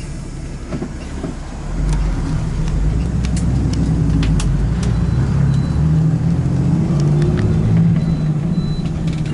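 Steady low rumble of a moving vehicle's engine and running gear, growing louder about two seconds in, with a few faint clicks.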